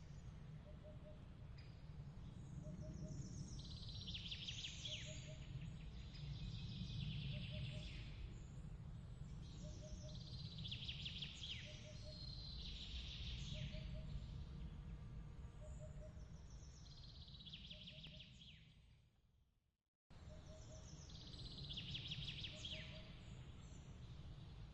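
Faint looped night-ambience track: a steady low rumble under bursts of high chirping calls every few seconds, with a soft repeating tick about every second and a half. It fades to silence near the end, then starts again abruptly.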